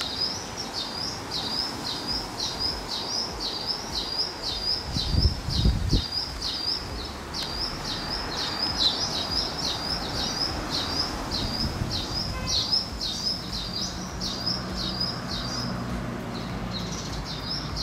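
Birdsong: a bird repeating one short, high chirp about three times a second, with a short pause near the end.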